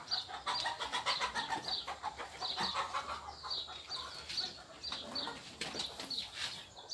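Small birds chirping in the background, a short high note repeated about two or three times a second.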